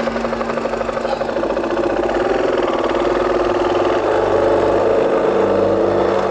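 KTM 500 single-cylinder four-stroke dirt-bike engine running under way, a steady rapid thump of firing pulses.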